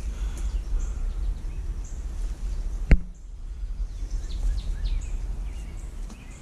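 Low, gusting wind rumble on the microphone, with birds chirping faintly in the background and a single sharp click about three seconds in.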